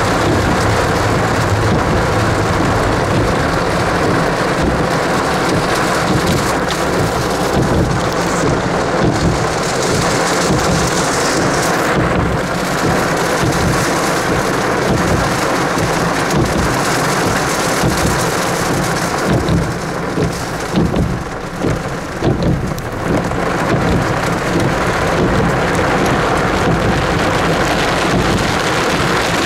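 Heavy downpour: loud, steady rain noise with a rough low rumble underneath, easing slightly about twenty seconds in.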